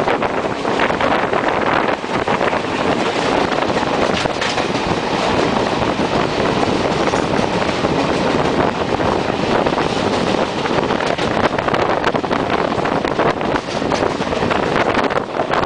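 Indian Railways passenger train running at speed, heard from on board: a loud, steady rush of wheel and track noise with wind buffeting the microphone.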